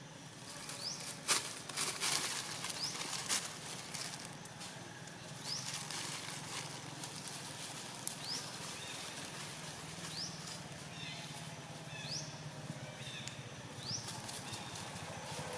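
A bird calling a short, high, rising chirp about every one and a half seconds, over rustling and a few sharp knocks early on.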